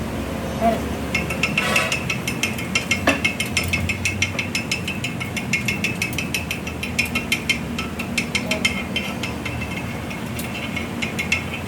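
Rapid, irregular metallic clicking, starting about a second in, over a low steady hum.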